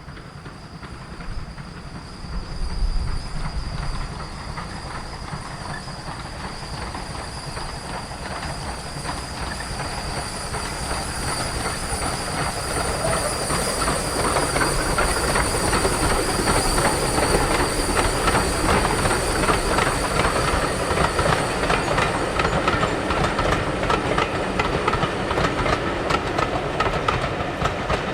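Steam-hauled train on a heritage line coming closer and running past, growing steadily louder, with its wheels clicking rapidly over the rail joints. A steady thin high-pitched whine runs under it.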